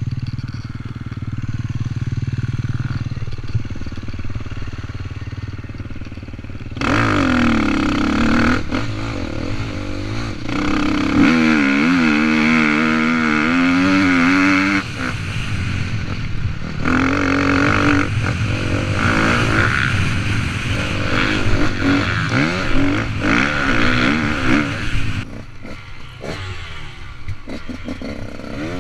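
KTM SX motocross bike engine: running low for the first several seconds, then revving hard from about seven seconds in, its pitch rising and falling through the gears as the bike is ridden along a dirt track, easing off near the end.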